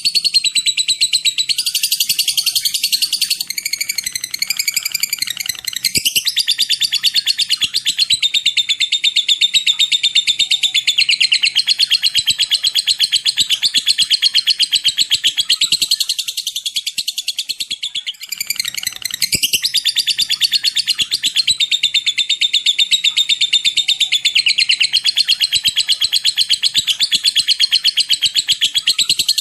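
A songbird sings a continuous, rapid, high-pitched chattering song. There is a brief break about 18 seconds in.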